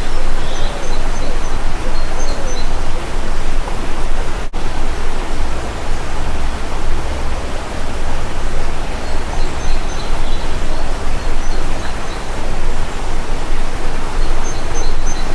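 Loud, steady rushing noise with a fluctuating low rumble, with a few faint high bird chirps about a second in and again around ten seconds.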